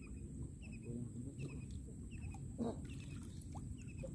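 Bird calling with short, high chirps repeated a few times a second over low wind and water noise. A brief louder sound comes about two and a half seconds in.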